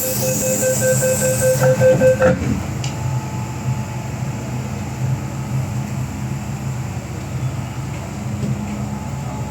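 MTR M-train metro train running on the Island Line: a steady rumble, with a high steady tone and a hiss in the first two seconds that cut off suddenly.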